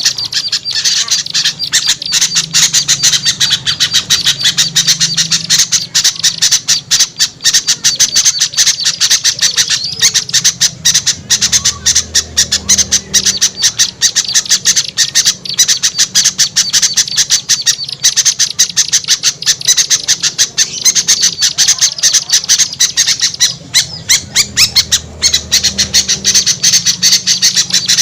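Bird-lure recording of many small birds chattering and squawking at once, a dense, unbroken stream of rapid high notes meant to call small birds down. A faint low hum runs underneath.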